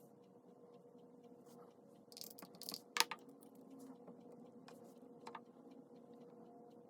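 Pen writing on paper: faint scratching strokes, a sharp tap about three seconds in, and a lighter tap a couple of seconds later, over a steady low hum.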